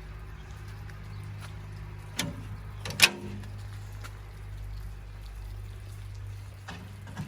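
Seashore ambience in a summer rainstorm: a steady low rumble of water and wind, broken by a few sharp knocks or splashes. The loudest comes about three seconds in, a lighter one just before it, and a couple more near the end.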